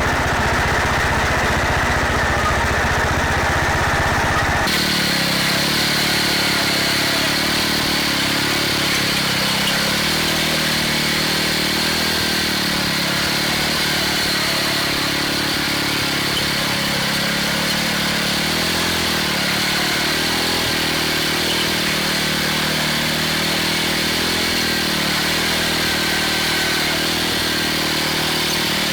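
MTD garden tractor engine running steadily, its pitch wavering slightly as the load changes. About five seconds in, the sound changes abruptly.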